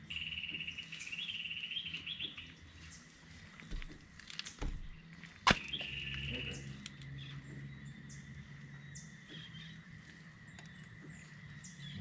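A bird's rapid, high chirping trill, heard twice, with a sharp click about five and a half seconds in and a few softer knocks just before it.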